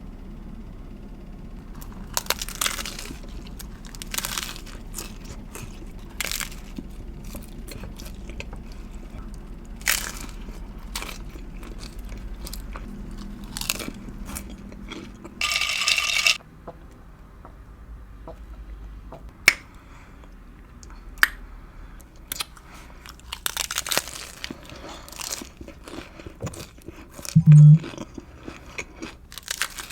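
Hard, crispy Siete taco shells being bitten and chewed close to the microphone, with irregular sharp crunches and chewing between them. A brief, loud low hum comes near the end.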